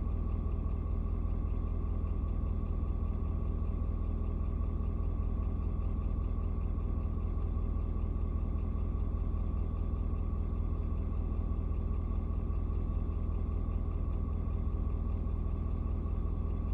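Ford Super Duty's 6.7-litre V8 turbo diesel idling steadily: an even low rumble with a faint steady high tone above it.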